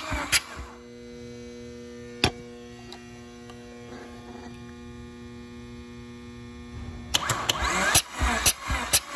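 A steady electrical hum with several even tones. A single sharp click comes about two seconds in. Beat-driven background music drops out at the start and comes back near the end.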